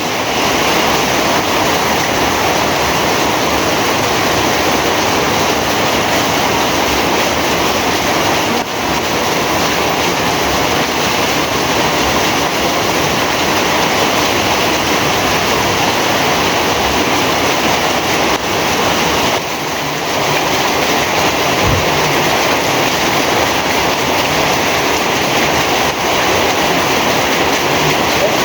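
Heavy rain falling, a loud, steady, dense hiss with no break.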